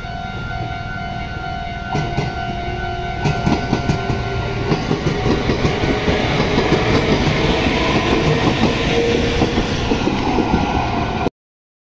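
Meitetsu electric train passing close by, its wheels clattering over the rail joints. The clatter sets in about two seconds in and grows louder as the cars go by, then cuts off suddenly near the end.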